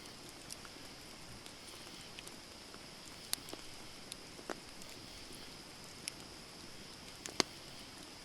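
Wood campfire burning: a steady soft hiss with scattered, irregular sharp crackles and pops, the loudest a double pop near the end.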